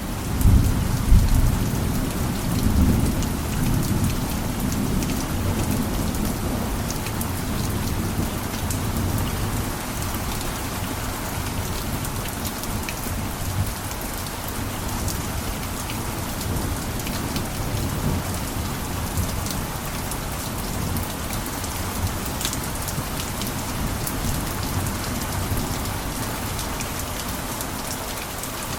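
Steady heavy rain pattering on a rooftop, with individual drops ticking through it. A low rumble under the rain is strongest in the first few seconds, then eases off and continues more quietly.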